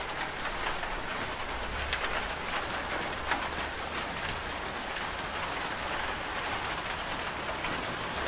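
Steady rainfall: an even hiss of rain with scattered sharp drop ticks on a hard surface.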